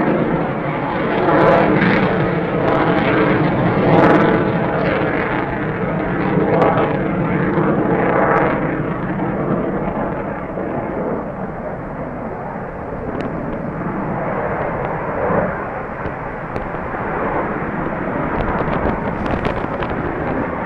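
Eurofighter Typhoon's twin EJ200 jet engines heard from a distance: a loud, continuous rumbling jet noise that swells and ebbs in waves, loudest in the first half and easing somewhat after that.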